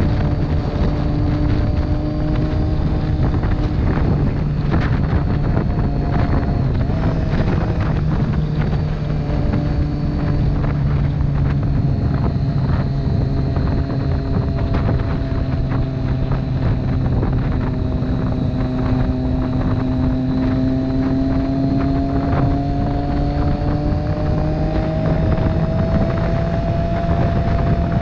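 Motorcycle engine running while riding at a steady speed, its pitch drifting slowly up and down with the throttle, with a rise near the end. Heavy wind noise on the microphone runs under it.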